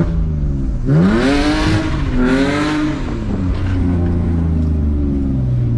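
BMW E46 engine revving hard as the car launches into a slide on wet pavement: the revs climb about a second in and again a second later, with a loud hiss of tyres on the wet road, then the engine settles to a steady lower note.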